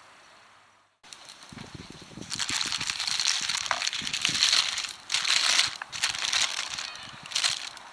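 Crinkling and crunching of something being handled, starting about a second in after a brief silence and coming in uneven surges.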